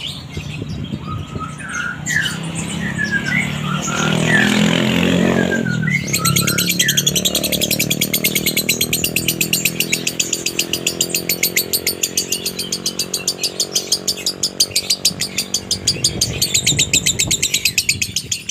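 Lovebird singing a 'konslet' chatter with a dry tone: a few short chirps, then from about six seconds in a long, fast, unbroken run of dry chattering notes.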